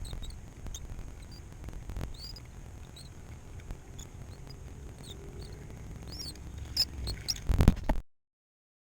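Small birds chirping in short, high tweets over a low steady rumble, with a few loud knocks near the end before the sound cuts off abruptly.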